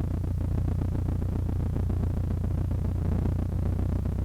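Cessna 152's four-cylinder Lycoming O-235 engine running steadily: an even, low drone.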